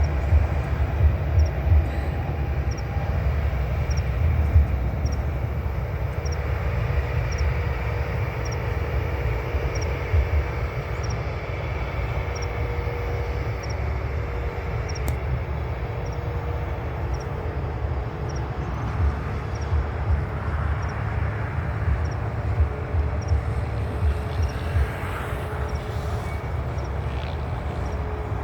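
Airbus A330-900neo's Rolls-Royce Trent 7000 jet engines running with a steady low rumble and a steady hum, with wind buffeting the microphone.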